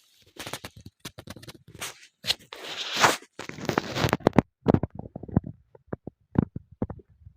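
Firewood being handled and put on a campfire: a quick, irregular run of cracks, knocks and scrapes, busiest a couple of seconds in, then thinning to scattered knocks.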